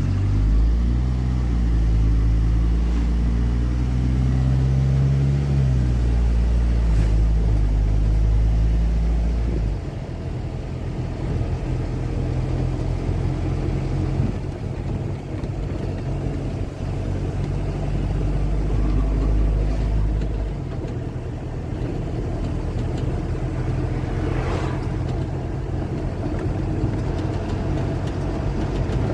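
Car driving along a road: steady engine hum and road noise. A deep low rumble is strong at first, eases off about ten seconds in, and comes back for a few seconds later.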